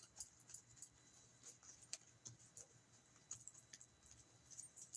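Near silence with faint, irregular light clicks and ticks from tarot cards being handled.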